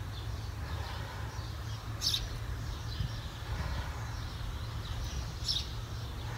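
Outdoor ambience: a steady low rumble with two short, high bird chirps, about two seconds in and again near the end.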